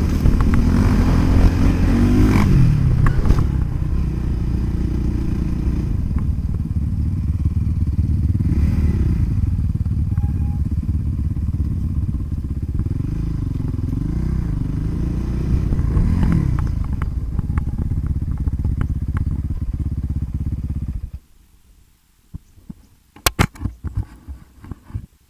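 Motocross dirt bike engines running, revving up and down in pitch several times, then cutting off abruptly about three-quarters of the way through. A few sharp clicks follow near the end.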